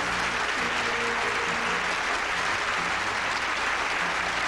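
Studio audience applauding steadily, with a band playing underneath.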